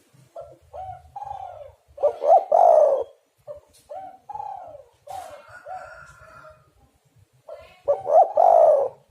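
Spotted doves cooing. Two loud coo phrases come about two seconds in and again near the end, with softer single coos between them.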